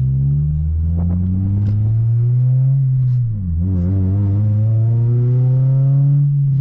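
Acura RSX's 2.0-litre four-cylinder engine, very loud through a new custom exhaust, accelerating with a steadily rising pitch. About three seconds in the pitch drops sharply and climbs again: an upshift.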